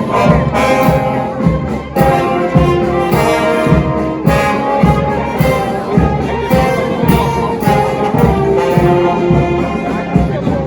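Brass band playing a tune, trumpets and trombones holding notes over a steady drum beat.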